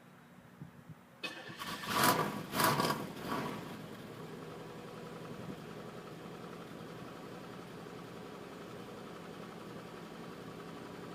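Car engine cold-starting in freezing weather: it cranks and catches about a second in, revs briefly twice, then settles into a steady idle. The car has a throttle body fault that the owner says has been getting worse.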